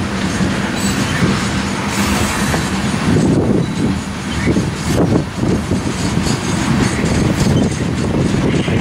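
Loaded coal cars of a freight train rolling past: a steady rumble of steel wheels on the rails, growing heavier with more clatter from about three seconds in.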